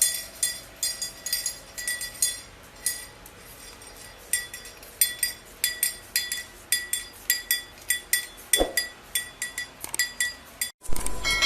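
Rapid, irregular clinking taps on a small hard object of glass or metal, about three or four a second, each with a short bright ring.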